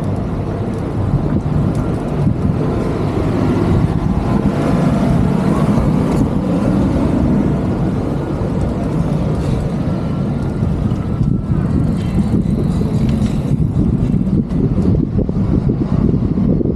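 Road traffic and the ride's own motion through city streets, heard as a steady low rumble.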